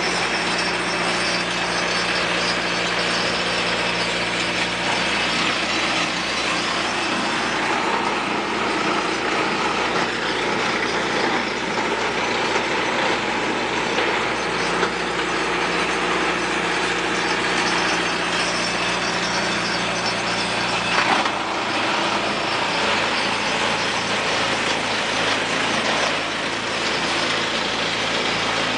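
An engine running steadily, its note shifting about three-quarters of the way through.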